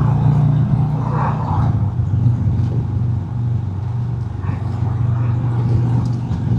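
Harley-Davidson Road King's Milwaukee-Eight V-twin engine running steadily while the bike cruises down the road.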